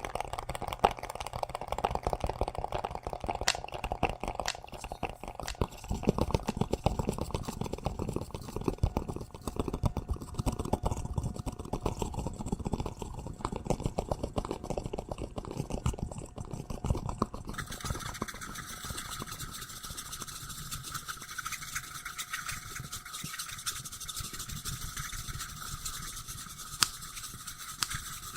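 Close-up ASMR scratching and brushing: a dense, fast crackle of small scrapes right at the microphone. About two-thirds of the way through, the texture changes suddenly to a thinner, higher-pitched rubbing with a hiss above it.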